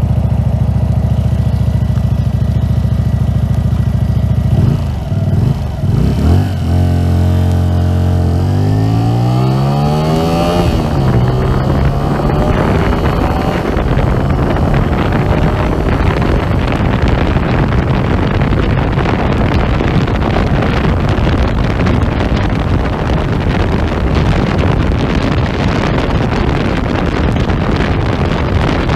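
Hyosung GV125 S Aquila's 125 cc V-twin running through an aftermarket Sound Control exhaust: it idles steadily, then pulls away with its pitch climbing for a couple of seconds before dropping at a gear change about ten seconds in. It keeps running under load with heavy wind noise on the microphone.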